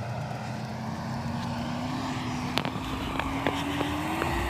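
Off-road 4x4's engine pulling through snow, its note rising slowly as the revs climb, with a few sharp clicks or knocks in the second half.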